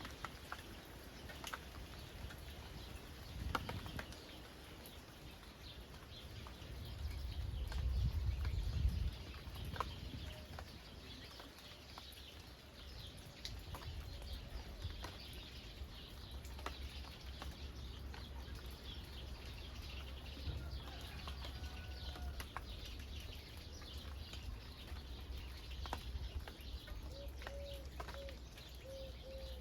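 Steady rain falling in open countryside, with many small drips and patters and a low rumble that swells twice in the first ten seconds. Birds call now and then, and near the end a dove coos in a short run of repeated low notes.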